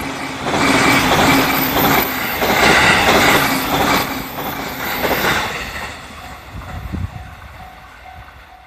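Electric train passing close by over a level crossing, its wheel and rail noise rising and falling in loud surges as the cars go by, then fading after about six seconds. As it fades, the crossing's warning bell is heard ringing at about two strokes a second.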